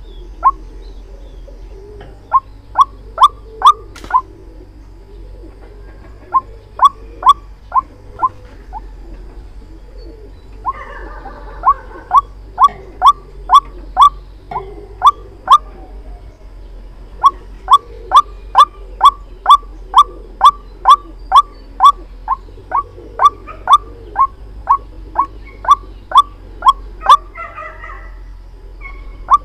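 White-breasted waterhen calling: short, sharp notes repeated about two to three a second in runs of five to a dozen or more, with pauses between runs, over a low background murmur.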